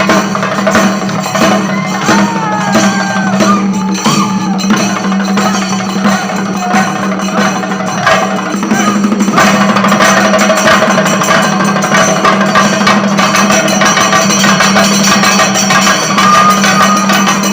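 Temple music: dense percussion with sharp, clacking strokes over a steady drone, with a wavering high melodic line about two to four seconds in.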